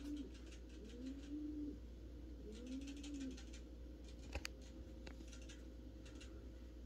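A bird cooing: three low, arching coos about a second and a half apart that stop about three seconds in. Faint light clicks and rustles run throughout, with one sharper click a little after four seconds.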